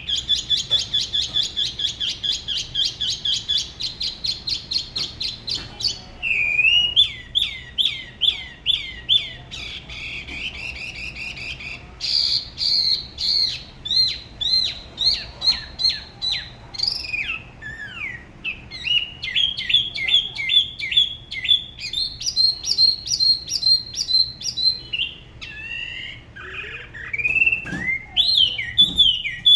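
Spot-throated babbler singing a long, varied song: fast runs of repeated high whistled notes, several a second, that switch to new phrases, some with downslurred notes, every few seconds.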